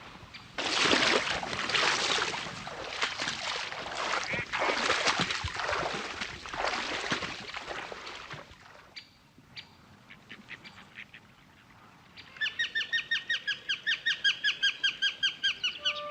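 A flock of waterbirds, ducks and geese, calling together in a dense clamour for about eight seconds. After a quieter lull with a few faint ticks, a rapid, even series of high notes starts, about six or seven a second.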